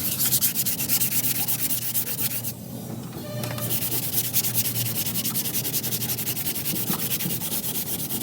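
Sanding on car bodywork in quick, even strokes, with a brief pause about two and a half seconds in.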